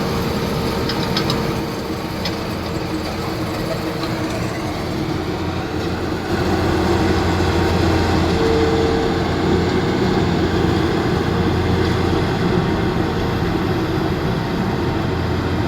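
A machine running steadily, with a low hum and a held mid-pitched whine, getting louder about six seconds in.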